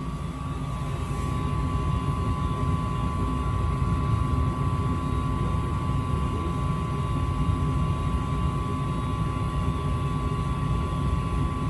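Goodman gas furnace running with its burners lit: a steady low rumble of flame and fans with a steady whine near 1 kHz. The flame is staying on now that the cleaned flame sensor is back in place.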